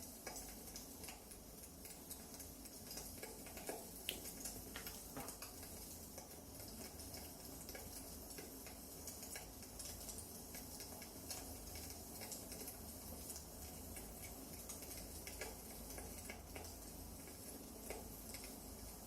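Wood fire crackling faintly, with irregular small pops and snaps over a soft steady hiss.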